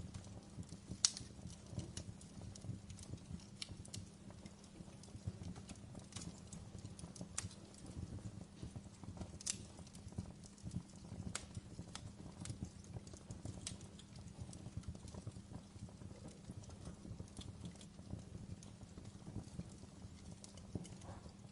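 Logs burning in a fireplace: a low, steady rumble of flame with irregular sharp crackles and pops from the wood, the loudest pop about a second in and others scattered throughout.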